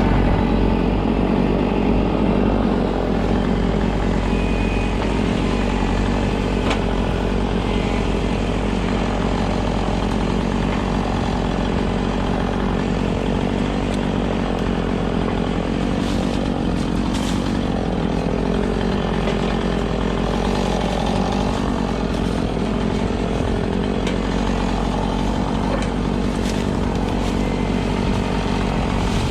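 An engine running steadily, its pitch dipping and recovering once about two-thirds of the way through.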